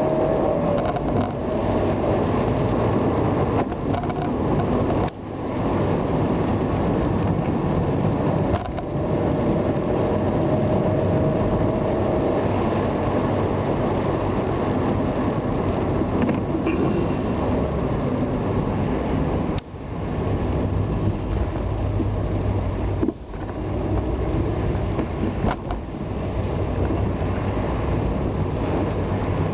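A vehicle's engine running steadily while driving, with four brief sudden drops in sound that then build back up.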